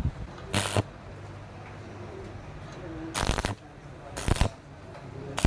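Stick-welding arc on thin galvanized box pipe, crackling in four short bursts of about a third of a second each, a few seconds apart, over a low steady hum.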